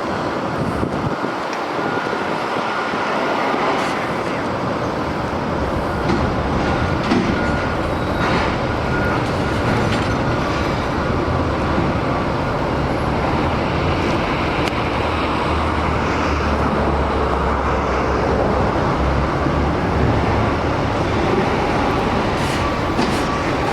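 Steady rumble of a heavy vehicle running, with road noise; the low rumble grows louder about two-thirds of the way through.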